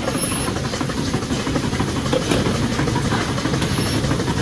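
Goat milking parlour machinery running steadily, a dense mechanical noise with short high-pitched hisses near the start and near the end.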